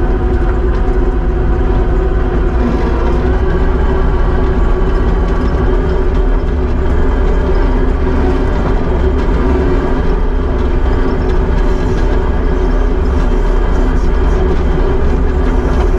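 Kubota SVL75-2 compact track loader's diesel engine running in a steady drone at raised throttle.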